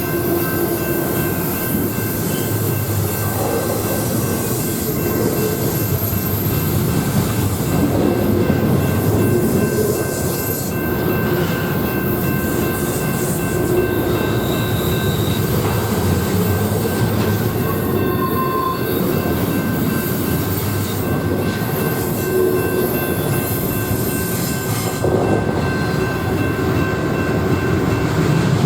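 A train rolling past, its wheels running on the rails in a steady, continuous rumble.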